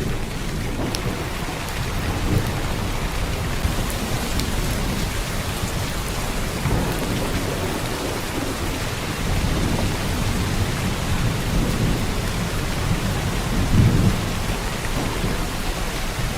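Heavy downpour rain falling steadily in a dense hiss, with a low rumble underneath that swells briefly near the end.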